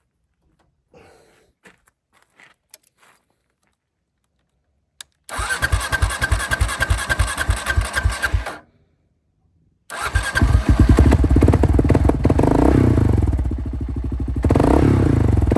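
Motorcycle's electric starter cranking for about three seconds without the engine firing, stopping, then cranking again about ten seconds in until the engine catches and runs, rising in revs twice. The bike had run out of fuel, and the rider takes the repeated cranking to be what lets a vacuum petcock draw fuel back into the empty line.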